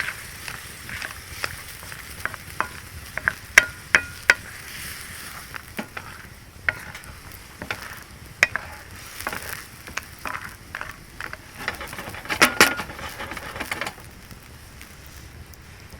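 Food sizzling in a pan over a campfire while a utensil stirs it, clicking and scraping against the pan, with brief metallic rings about four seconds in and again near twelve seconds.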